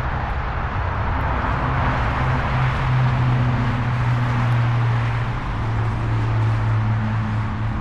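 Wind rushing over the microphone and tyre noise while riding along on an e-trike. A low, steady hum comes in about two seconds in and holds to the end.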